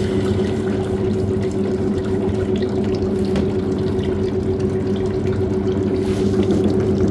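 Shoe washing machine running: a steady motor hum with water churning and splashing inside.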